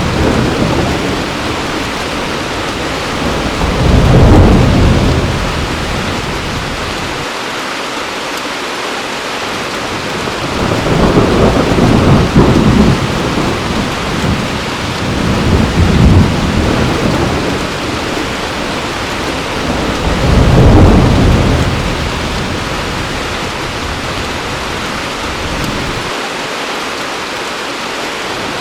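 Heavy rain falling steadily, with thunder rumbling in four low rolls that swell and fade, the first a few seconds in and the last past the middle.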